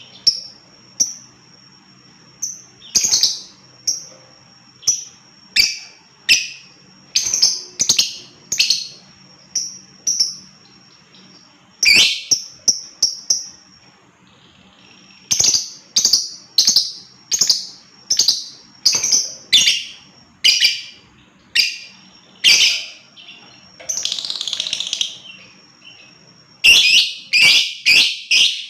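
Lovebird calling: a string of sharp, high-pitched chirps at uneven spacing. Shortly before the end comes a brief rasping chatter, then a fast run of chirps.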